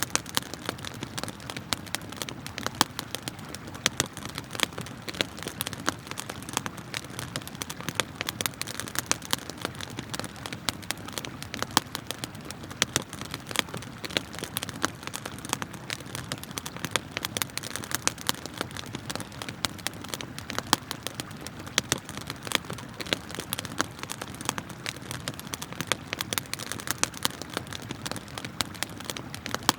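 Campfire of burning wood crackling, with frequent sharp irregular pops, over the steady rush of flowing river water.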